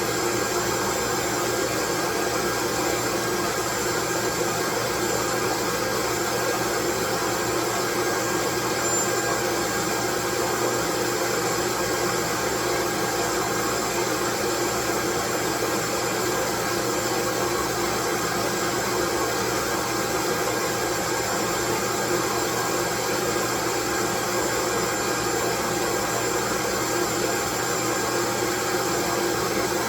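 Steady, loud white noise that does not change, with faint steady tones running through it.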